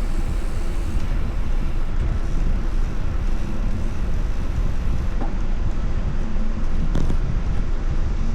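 Wind buffeting the microphone while riding: a steady low rumbling rush, with a short sharp knock about seven seconds in.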